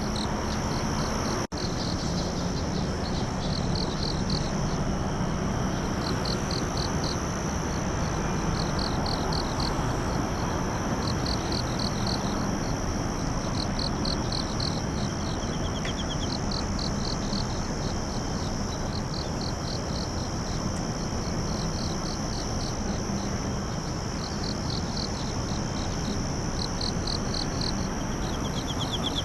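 Night insect chorus: a steady high-pitched trill with crickets chirping in repeated short pulse trains every second or two, over an even background hiss. The sound drops out for a moment about one and a half seconds in.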